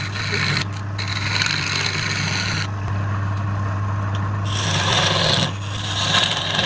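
Wood lathe running with a steady hum while the spinning wood is worked with a scraping, rasping sound. The rasp comes in passes of one to two seconds with short breaks between them.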